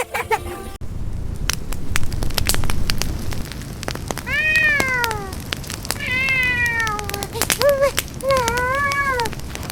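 A kitten meowing, several drawn-out calls that rise and fall in pitch, starting about four seconds in, over a steady low rumble and scattered crackling clicks.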